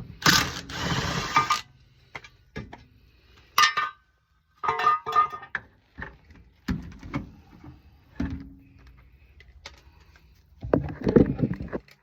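Metal tools and car parts being handled: a string of separate clanks and knocks, a few with a brief metallic ring, with a longer scraping rustle at the start and a busy clatter near the end.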